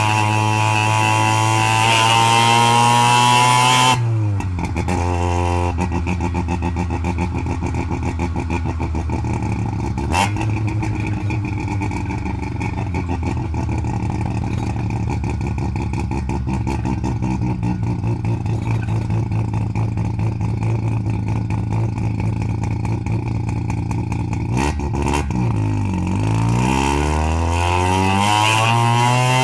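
Half-bridgeported Mazda 12A two-rotor rotary engine held at high revs, then dropping quickly to a choppy, pulsing idle. There is one sharp crack about ten seconds in, and near the end the engine is revved up again.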